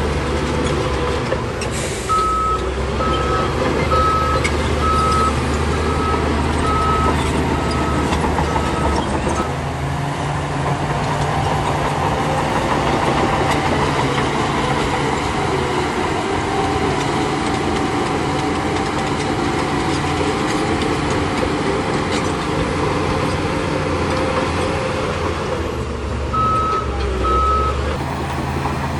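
Heavy earthmoving machinery with diesel engines running steadily. A reversing alarm beeps about once a second for some seven seconds from about two seconds in, and twice more near the end.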